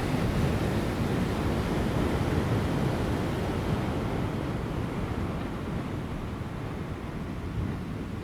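Large ocean waves crashing on rocks: a continuous, rushing wash of surf that is loudest over the first few seconds and then eases off a little, with light wind.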